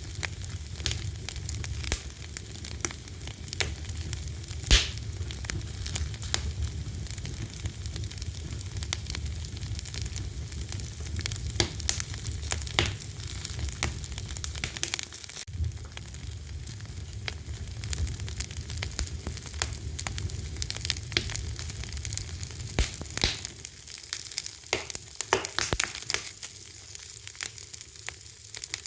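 Wood fire crackling: a steady hiss with irregular sharp pops and snaps, one louder snap about five seconds in, and a low rumble that thins out near the end.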